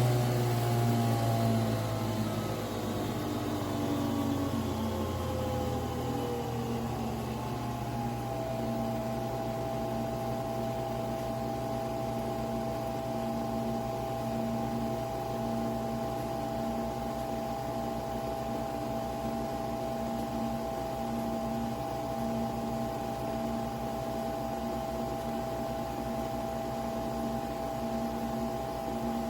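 Nespresso Vertuo Pop+ coffee machine running through a brew cycle: a motor whine falls in pitch over the first several seconds, then settles into a steady hum with a faint regular pulsing underneath.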